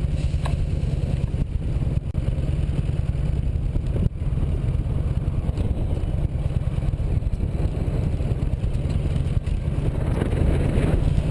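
Motorcycle running on the road, a steady low rumble of engine and wind buffeting the microphone.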